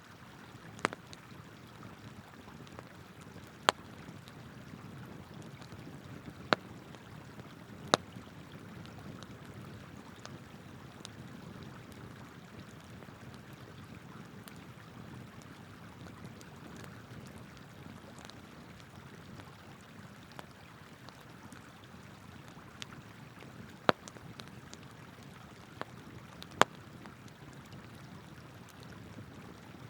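Wood campfire crackling, with about half a dozen sharp pops scattered through, over the steady rush of a flowing river.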